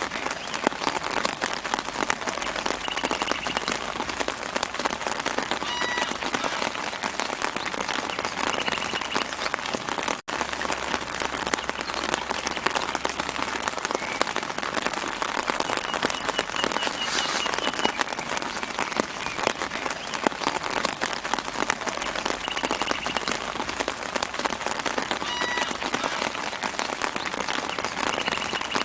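Steady soft rain pattering on leaves, with faint short trilling bird calls a few times in the background.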